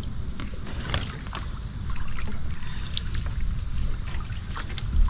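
Water splashing and dripping lightly around a fishing kayak, with scattered small ticks over a steady low rumble.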